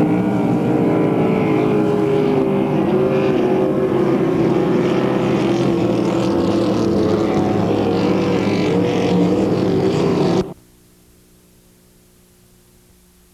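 Racing powerboat engine running at speed, its pitch wavering up and down. It cuts off suddenly about ten seconds in, leaving only a faint steady hum.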